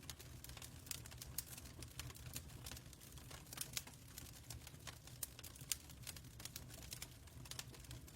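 Fireplace crackling: irregular sharp pops and snaps, several a second, over a low steady rumble of the fire.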